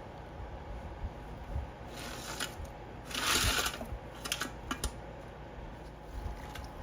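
Rustling and handling noises: a short rustle about two seconds in, then a louder one lasting most of a second, followed by a few quick light clicks.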